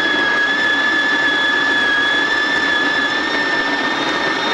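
Espressione electric conical burr coffee grinder running steadily, grinding coffee beans on a medium setting: a steady high motor whine over the rasp of the grinding.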